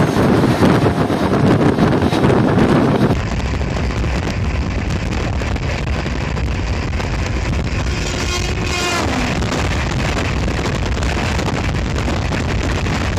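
Wind and rail noise of trains crossing at high speed, heard from the open door of a moving train. It is louder until a sudden change about three seconds in, then a steadier rush as the Duronto Express coaches pass on the next track, with a short tone that falls steeply in pitch about eight seconds in.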